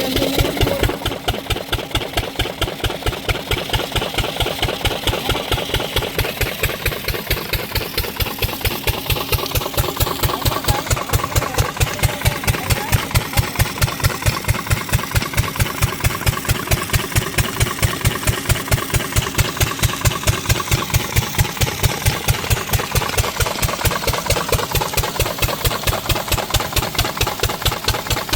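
12 hp single-cylinder diesel engine driving an irrigation water pump, running steadily with an even, rapid beat of exhaust pulses.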